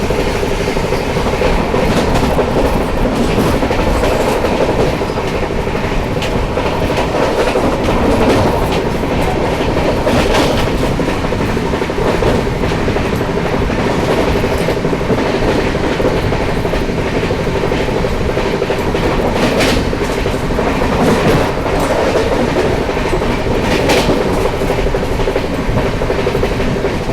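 Express train running steadily at about 130 km/h, its wheels clicking over rail joints above a continuous rumble, with a few sharper clanks along the way.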